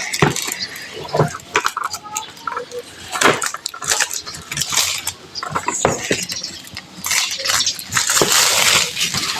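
Plastic shrink-wrap being torn and peeled off a product box: crinkling and rustling with scattered sharp clicks and knocks, and a longer stretch of rustling about seven seconds in.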